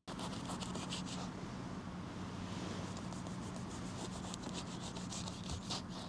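Many quick scratchy rubbing strokes over a steady low hum.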